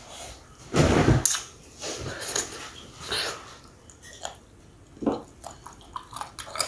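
Close-miked eating sounds of a person chewing and smacking, with wet mouth clicks as food is eaten by hand. There is a louder noisy burst about a second in, and a cluster of quick clicks near the end.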